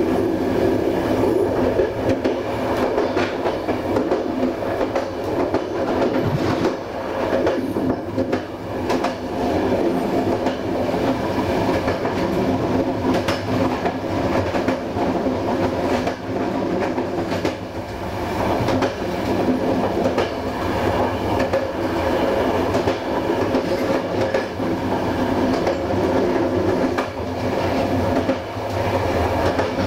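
Passenger train running along the track: a steady rumble of wheels on rail with scattered, irregular clicks from rail joints.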